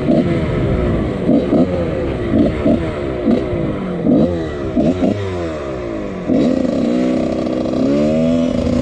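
Two-stroke engine of a 1999 Husqvarna CR125 dirt bike with a Pro Circuit exhaust, being ridden: the revs rise and fall again and again as the throttle is worked, with short sharp blips about once a second. About two thirds of the way in it settles into a steadier, higher rev.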